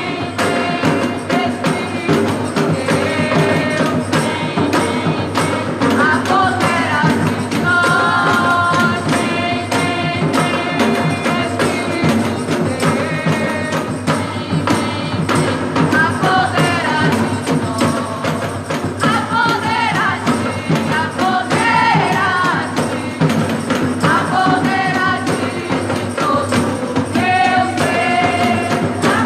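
Gospel worship band playing with singing, over a steady beat with tambourine.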